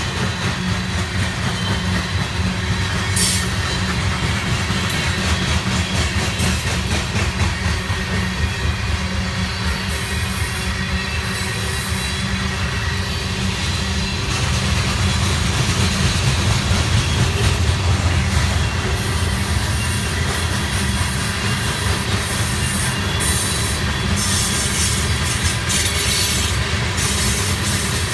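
Freight train of covered hopper cars rolling slowly past, a steady low rumble with the steel wheels clicking at irregular intervals over the rail joints.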